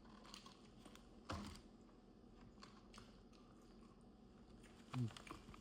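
Quiet eating sounds: faint chewing and small mouth clicks, with two short low hums, one about a second in and one near the end.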